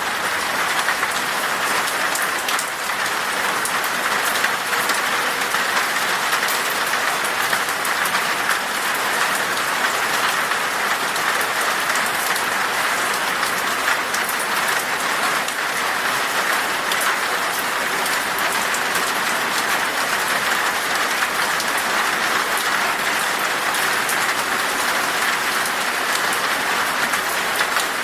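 Steady rain falling in a forest, an even hiss of drops with fine patter throughout.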